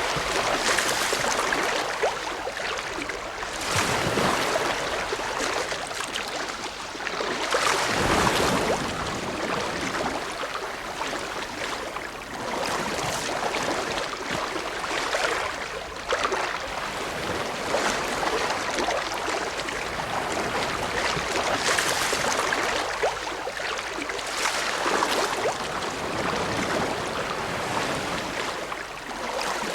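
Ocean waves breaking and washing on a shore: a continuous rushing hiss that swells with each wave, several times over.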